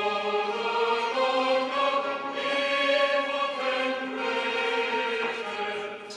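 Choral music: voices singing held notes in chords that shift every second or so, dipping near the end.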